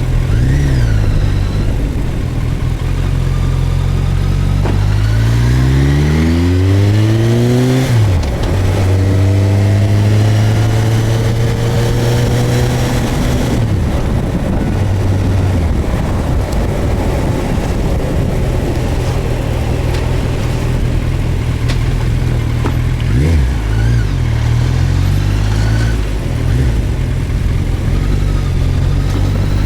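Suzuki GSX1250FA's inline-four engine running on the move; the revs climb from about five seconds in and drop suddenly near eight seconds, as at an upshift, then hold fairly steady with small throttle changes.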